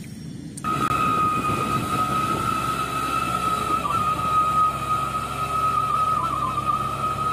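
A dump truck's engine running with its wheels sunk in mud: a low rumble under a steady high whine, starting about half a second in.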